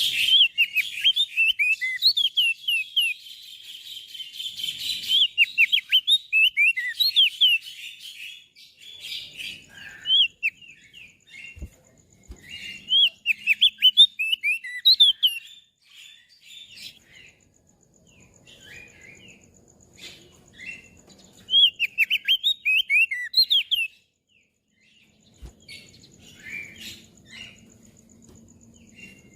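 Crested white-eye (opior jambul) singing: bursts of quick, high chirping phrases several seconds long, broken by short pauses, turning softer and sparser near the end.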